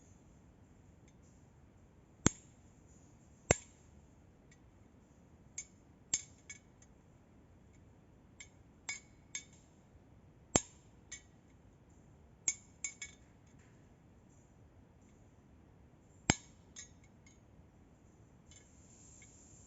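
Metal-on-metal knocks and clinks from tools and parts being worked on, as in a motorcycle crank repair. The strikes come at uneven intervals: a few loud ones among lighter taps, each ringing briefly.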